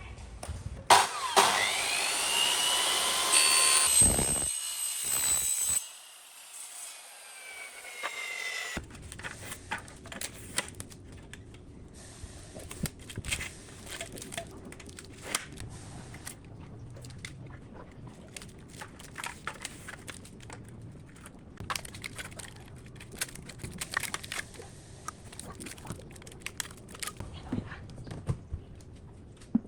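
A power tool runs loudly for about five seconds, its pitch sweeping up and down, then winds down with a slowly falling whine. After that come light, scattered clicks and knocks of hand work.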